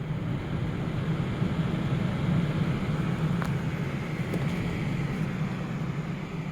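Electric ventilation fan running, a steady rush of air over a low hum, growing louder over the first two seconds as it speeds up and then holding steady.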